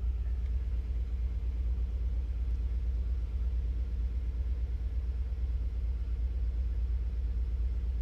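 1993 Nissan 300ZX Twin Turbo's 3.0-litre twin-turbo V6 idling steadily at operating temperature, a low even rumble with a fine regular pulse.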